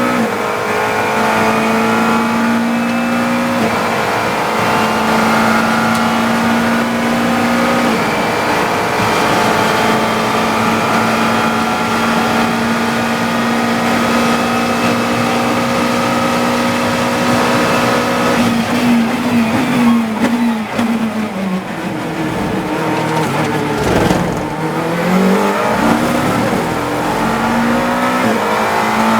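GT3 race car engine from the cockpit, held at high revs flat out on a straight. About 18 seconds in it drops through a run of quick downshifts under braking, dips low through a corner, then climbs again through upshifts near the end.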